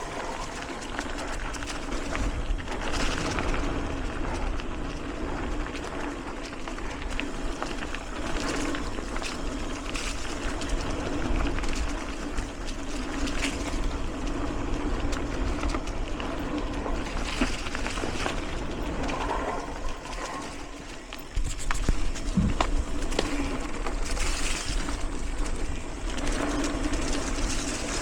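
Riding noise from a mountain bike rolling along a dirt singletrack trail: tyres on dirt and rocks, the bike rattling, and air rushing past the microphone, with scattered knocks. It dips briefly about three-quarters of the way in, then gets louder.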